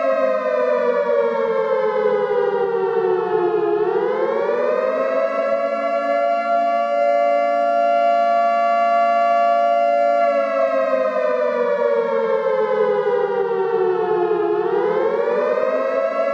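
Civil defense siren sounding a nuclear-attack alarm: a chord-like wail that slowly falls in pitch over about four seconds and quickly swings back up, holds steady, then falls and rises again near the end.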